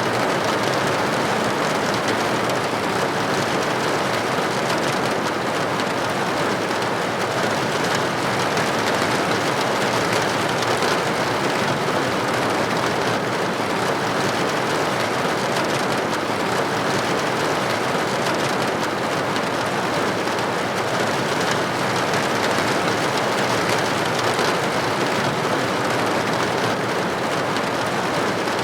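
Steady, dense rainfall, a loud even hiss of many drops with no thunder or separate drips standing out.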